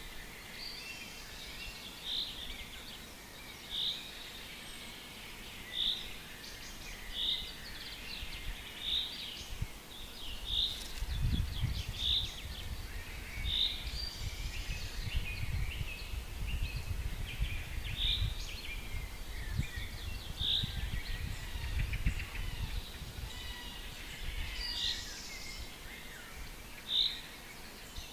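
Forest birds singing: one bird repeats a single short, high note about every two seconds over quieter chirping and twittering from other birds. A low rumble comes in about a third of the way through and dies away near the end.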